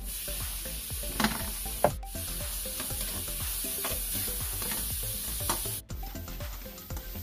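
Chopped tomatoes sizzling as they hit hot oil in a stainless steel wok, with a metal spatula scraping and stirring against the pan. Two sharp knocks on the pan come in the first two seconds. The sizzle drops away suddenly near the end.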